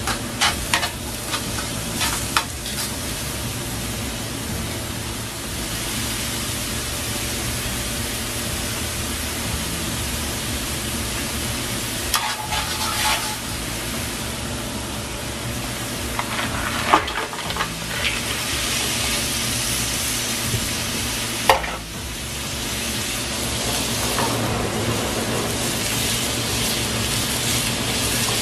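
Chopped onion, garlic and parsley sizzling in olive oil in a steel paella pan, stirred with a metal utensil. A handful of sharp clinks against the pan stand out over the steady sizzle.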